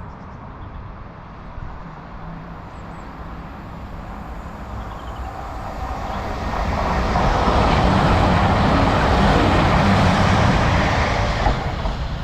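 A train approaching and passing, a rushing noise of wheels and running gear over a low engine hum that builds steadily, peaks about two-thirds of the way in and starts to fade near the end.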